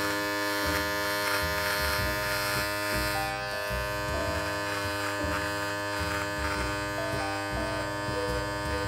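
Electric beard trimmer running with a steady buzz while it is pressed against the neck, cutting away the hair below the neckline.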